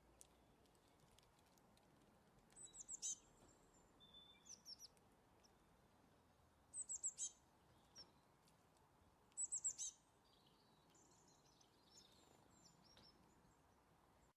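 Birdsong: a small bird sings short, fast phrases of high, downward-sweeping chirps, three louder bursts a few seconds apart with softer notes between. A faint steady hiss lies underneath.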